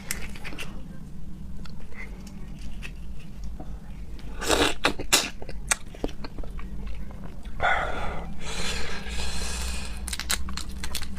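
Wet, close-up chewing and mouth sounds of someone eating raw seafood, with a cluster of sharp smacks about four and a half seconds in and a longer noisy swell from about seven and a half seconds that lasts some two seconds.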